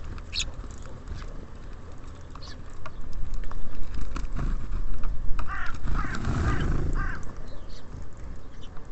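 Birds at a feeder: scattered short high chirps, and a little past the middle a run of about four harsher calls, over a steady low rumble that swells for a few seconds.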